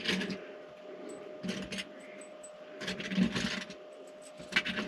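Several short bursts of light clicking and rattling, as small hardware and tools are handled while a panel is refitted, over a faint steady hum.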